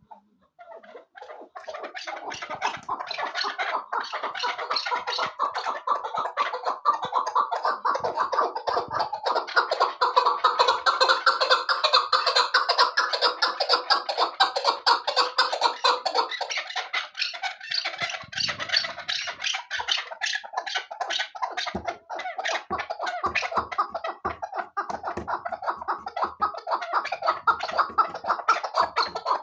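Chukar partridge calling: a fast, unbroken run of chuk-chuk clucks that starts about a second in and keeps going.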